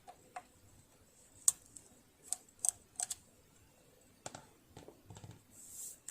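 Irregular sharp clicks and light taps of tools and metal parts being handled on a partly disassembled sewing machine, with a short hiss near the end.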